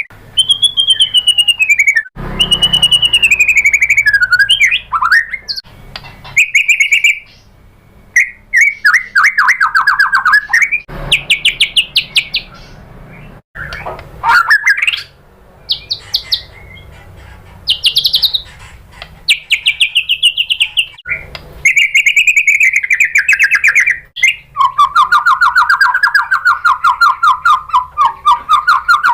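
White-rumped shama singing a long run of varied phrases: whistled glides, fast rattling trills and chattering notes, separated by short pauses.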